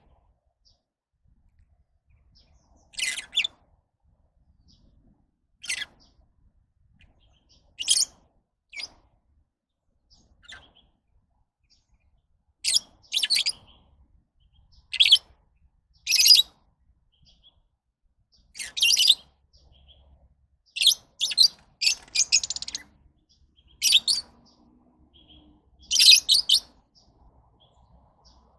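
Lovebirds calling: short, sharp, high-pitched chirps and squeaks in scattered bursts with quiet gaps between them, coming more often in the second half.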